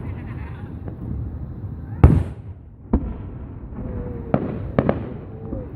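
Aerial fireworks bursting: one loud bang about two seconds in, then several smaller bangs, with a steady crackle between them.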